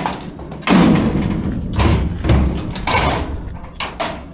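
Heavy scrap being shifted and set down: a run of thumps, knocks and scraping, loudest about a second in.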